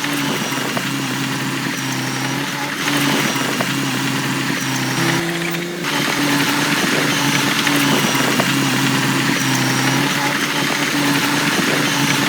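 Diesel engine of heavy earthmoving machinery running steadily, with a brief rise in pitch about five seconds in before settling back.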